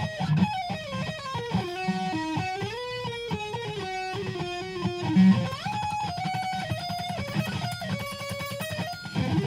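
Electric guitar tuned to Drop C# playing a fast single-note lead passage, the notes stepping up and down with a few slides between them.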